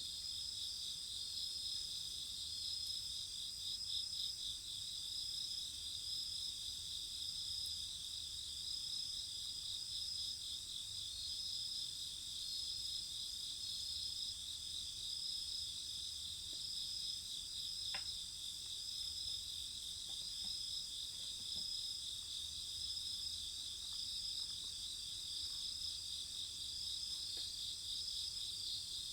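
Crickets chirping in a steady night chorus, several high pulsing trills layered together, with a single faint click about two thirds of the way in.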